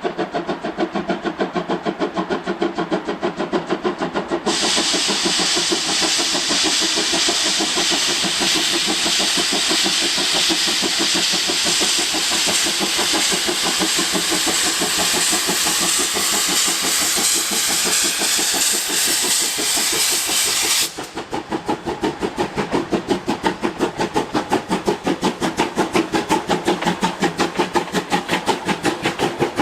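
C12-class steam tank locomotive working under load, with a steady rapid beat of exhaust chuffs. About four seconds in a loud steam hiss from the open cylinder drain cocks joins it and cuts off suddenly about 21 seconds in, after which the chuffing carries on alone.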